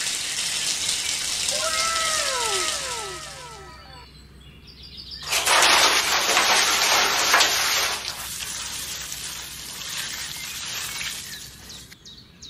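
A thin stream of water pouring into a small plastic pool, with a few short bird chirps about two seconds in. About five seconds in, a louder rush of water as a small metal bucket is dipped into the pool, then a quieter trickle.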